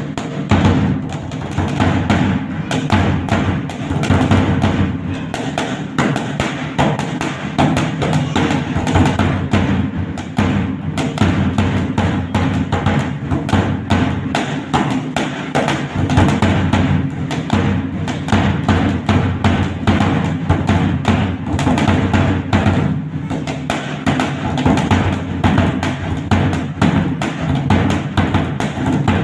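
Dhak, a large barrel-shaped drum, played with sticks in a fast, dense, unbroken rhythm.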